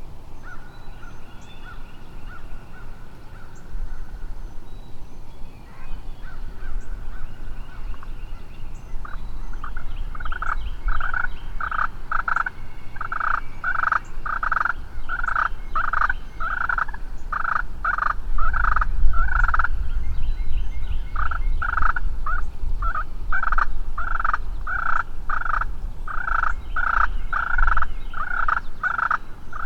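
Turkey yelping: after a few drawn-out steady notes, a long run of evenly spaced yelps follows, about one and a half a second, with a short pause about two-thirds of the way through.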